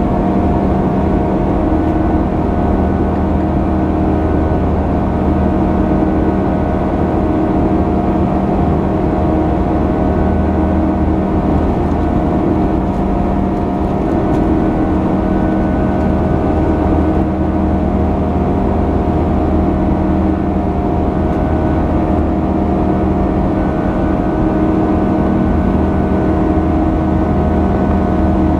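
Boeing 737-800's CFM56 jet engines running steadily, heard inside the passenger cabin as a loud, even drone with a few steady humming tones.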